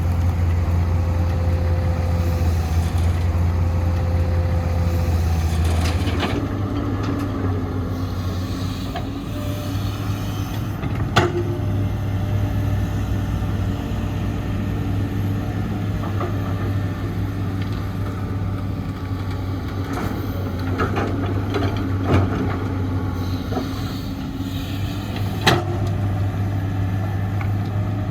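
Heavy diesel construction machinery running steadily, the engine note shifting about six seconds in, with three sharp knocks, likely the excavator's bucket and the dump truck's steel bed, later on.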